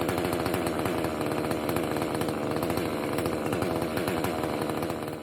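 Husqvarna 3120 XP two-stroke chainsaw running steadily at high revs, ripping an oak log on a chainsaw mill. The sound fades out near the end.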